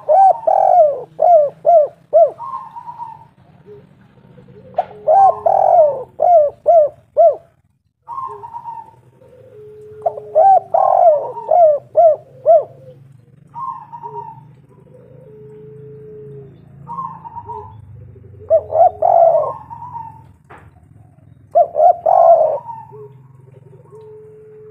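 Spotted dove (tekukur) cooing, with phrases of quick repeated coos about every four to five seconds and softer single notes between them. A steady low drone runs underneath.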